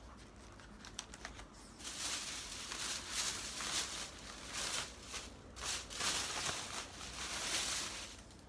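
Plastic bags and packaging rustling and crinkling as groceries are handled, a few light clicks at first, then continuous crackly rustling from about two seconds in until near the end.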